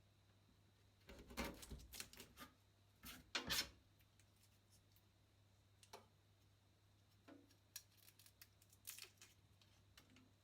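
Garlic clove rubbed on a grater in two short bursts of rasping strokes, about one and three seconds in, followed by scattered light clicks and taps.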